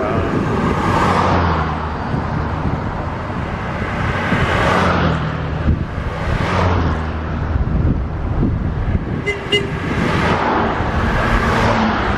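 Wind rushing over the microphone while riding a bicycle along a road, swelling and fading every second or two, with a low rumble underneath.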